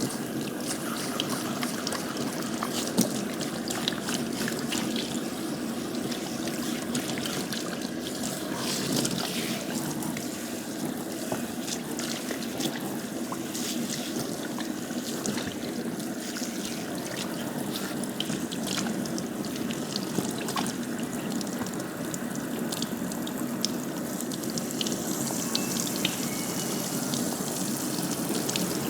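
Running water trickling and splashing steadily, with many small splashes and drips throughout.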